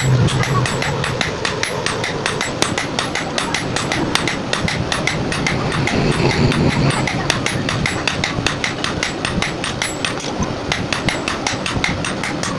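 Hammer striking steel in a fast, even rhythm of several blows a second, as in forging an axe head.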